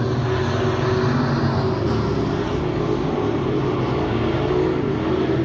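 Dirt-track stock cars' engines running at race speed around the oval, a loud steady drone with no let-up.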